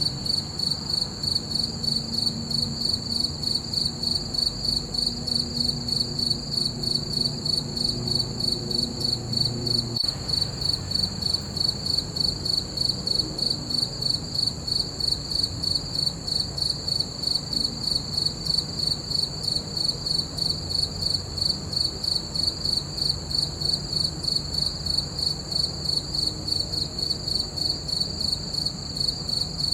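Crickets chirping in a steady, even rhythm, several high-pitched chirps a second without pause.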